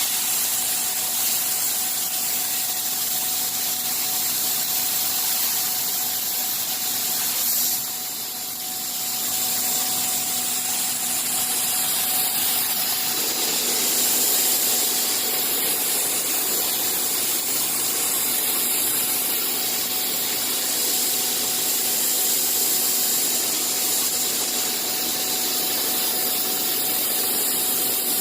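Bystronic CNC machine running: a steady hiss over a constant hum with a few steady tones. It dips briefly about eight seconds in and grows fuller from about thirteen seconds on.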